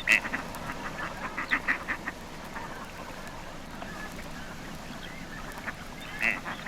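Gadwall calling: a series of short duck calls, several in quick succession in the first two seconds and another pair near the end, over a steady background hiss.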